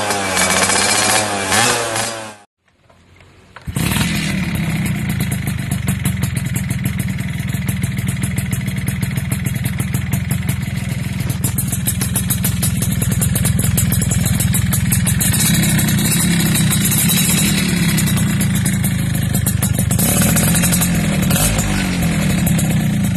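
Two-stroke underbone motorcycle engine with a racing exhaust, revved up and down, then cut off about two and a half seconds in. After a short gap, a two-stroke engine runs loud and steady at high revs with a fast crackling pulse, its pitch swelling a little now and then near the end.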